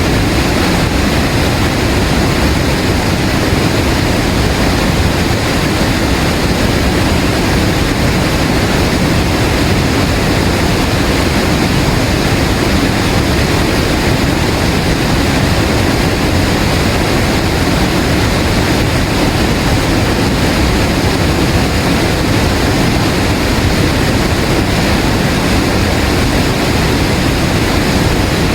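Waterfall rushing steadily: a loud, unbroken roar of falling water.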